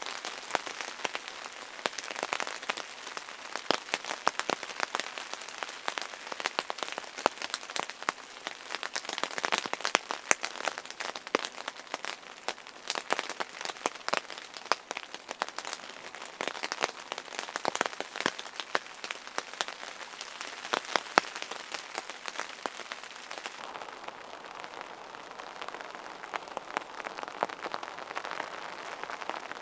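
Rain falling, a dense irregular patter of drops striking a surface, with occasional sharper, louder hits. Near the end the drop strikes thin out and a smoother rushing hiss takes over.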